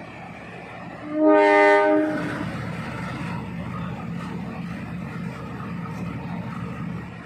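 Train horn sounds one blast about a second in, lasting about a second, followed by the steady low rumble of the train standing or running.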